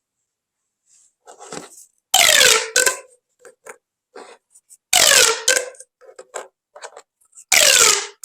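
Corrugated plastic pop tubes being stretched and squeezed: three loud ratcheting pulls, each falling in pitch, about every two and a half seconds, with softer clicks from the ribs in between.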